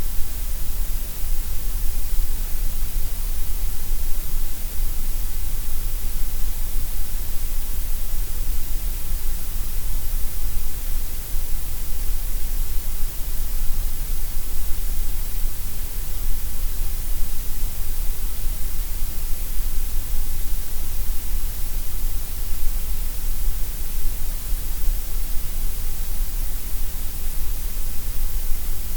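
Synthetic gray noise: a steady, unbroken hiss across the whole range from deep bass to high treble, with no tones or events.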